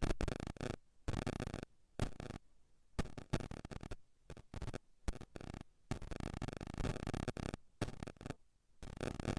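Static hiss and crackle cutting in and out abruptly in irregular bursts, with a faint steady whine underneath: a faulty audio feed, not the sound of the room.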